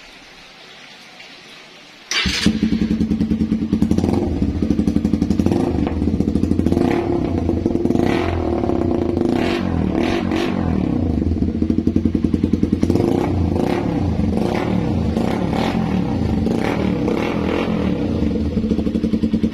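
Suzuki Raider 150 motorcycle engine running through a newly fitted custom elbow and SC Project muffler. It comes in loud about two seconds in, then idles with repeated short throttle blips.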